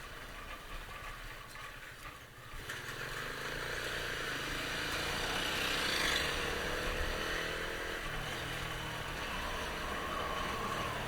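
Motorcycle engine running on the move, with road noise. It gets louder about three seconds in, and the engine pitch climbs slowly as the bike picks up speed.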